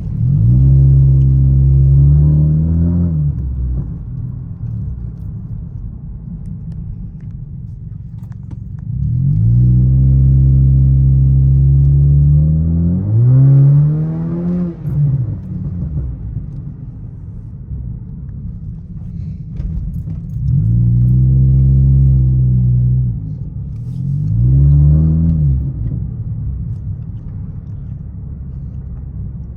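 A 2012 Honda Civic's 1.8-litre four-cylinder engine idles through its exhaust and is revved four times. Three revs are held for a few seconds and two are quick blips, each rising in pitch and dropping back to a steady, rumbling idle.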